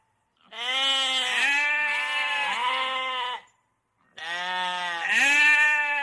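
Goat bleating: two long, wavering calls, the first lasting about three seconds and the second starting about four seconds in.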